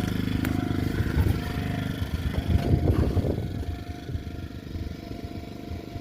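Small portable generator engine running steadily, powering a 12-volt water pump, with some knocking and clatter between about one and three seconds in.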